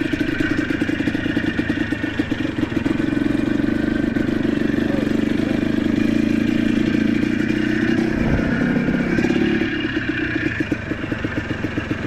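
ATV engine running steadily under way, easing off near the end.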